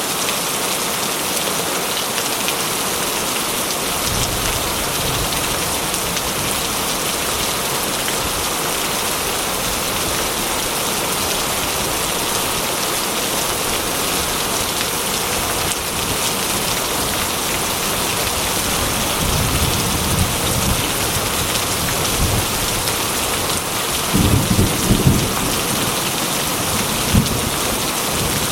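Heavy rain drumming steadily on a corrugated metal roof. Low thunder rumbles in the second half, the strongest a little past two-thirds of the way through.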